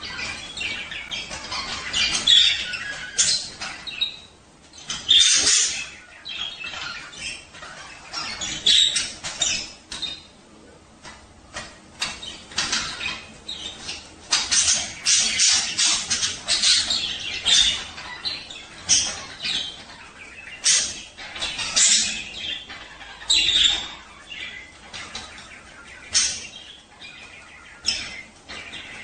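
Budgerigars chattering: a dense run of quick chirps, warbles and squawks that comes and goes in irregular bursts.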